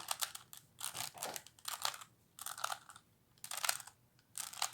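A 3x3x3 Rubik's Cube's faces being turned in quick succession while running through a solving algorithm: about seven short bursts of plastic clicking and rattling, with brief gaps between them.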